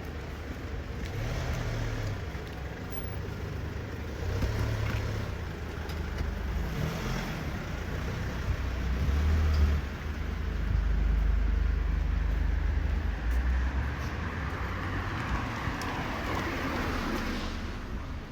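Car engine rumbling close by, louder in the middle, then pulling away near the end, over street traffic noise.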